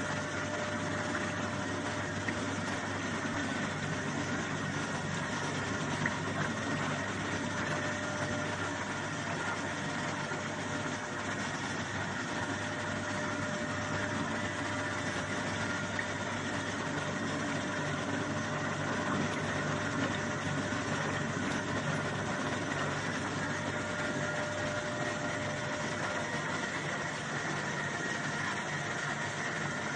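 Soybean washing machine running steadily, a continuous even machine noise with a constant hum.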